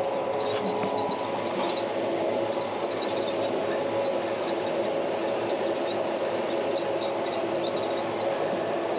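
Tractor engine running steadily under a light load while pulling a hay rake, a constant drone with a few steady tones and faint scattered high ticks.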